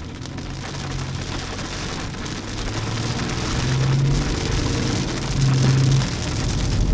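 Rain pattering on a moving car, with a steady low drone from the engine and tyres underneath; it grows louder over the first few seconds.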